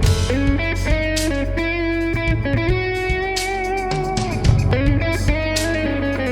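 Live band playing an instrumental groove: electric guitar over a steady bass line and drums, with long held melody notes changing pitch every second or so.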